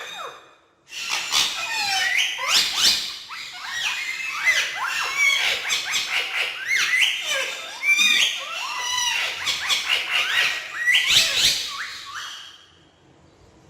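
Ringneck parakeets chattering with rapid, high squawks and chirps that start about a second in and die away near the end.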